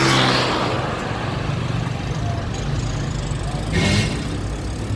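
Street traffic: a motor vehicle's engine runs steadily. A vehicle passes loudly right at the start, and a brief hiss comes about four seconds in.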